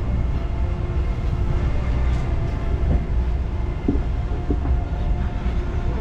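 Parking-lot tram running, heard from on board: a steady low rumble from the tractor engine and rolling cars, with a few light knocks and rattles about four seconds in.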